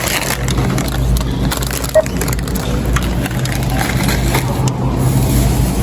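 Groceries being handled and bagged at a store checkout: continuous rustling and crackling with one short beep about two seconds in, over a steady low hum.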